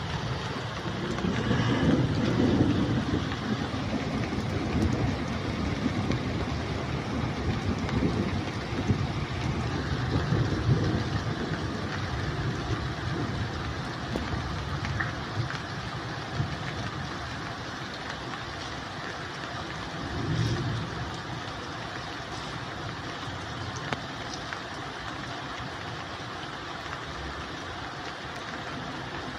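Steady rain falling, with a low rumble that swells and fades several times, louder in the first half.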